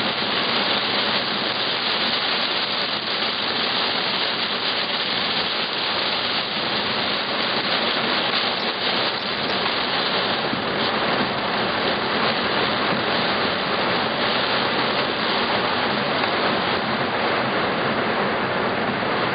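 Heavy thunderstorm rain pelting a car's windshield and roof, heard from inside the car as a steady, unbroken hiss.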